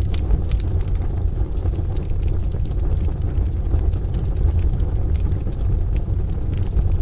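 Wood fire crackling, with scattered sharp pops that come thicker near the start, over a steady deep rumble of rain and distant thunder.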